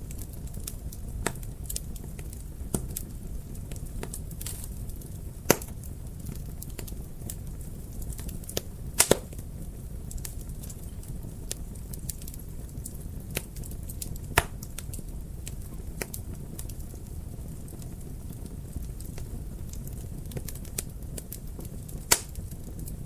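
Fire crackling in a fireplace: a steady low rumble of flames with scattered sharp pops, including a quick pair about nine seconds in.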